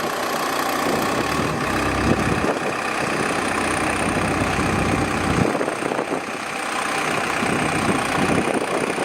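A heavy machine's engine runs steadily, with a deeper rumble swelling from about a second and a half in until about five and a half seconds.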